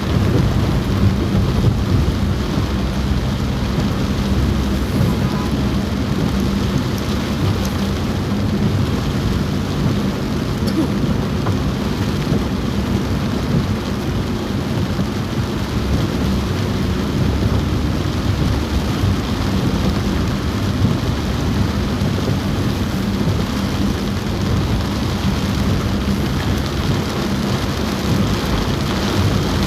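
Heavy rain falling on a car roof, heard from inside the car: a dense, even patter over a steady low rumble.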